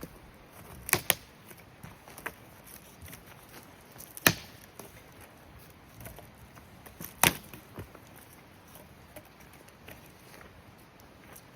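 Sharp wooden cracks or knocks, five in all at irregular gaps: two close together about a second in, then single ones a little after two, around four and a little after seven seconds, the one around four the loudest.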